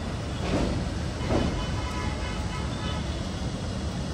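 Passenger train running on the line, heard from on board: a steady low rumble of wheels on rail, with a pair of clacks as the wheels pass a rail joint about half a second in.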